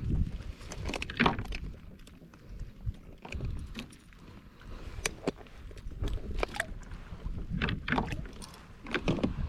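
Irregular knocks and clatter of handling on a plastic fishing kayak, a Hobie Revolution 13, over a steady low rumble.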